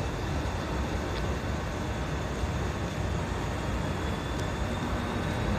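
Engine running steadily on a test run: an even low rumble with a faint steady high whine over it.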